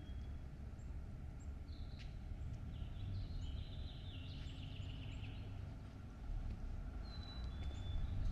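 Songbirds chirping and singing over a steady low rumble. A warbling song runs from about two to five seconds in, and two short whistled notes come near the end.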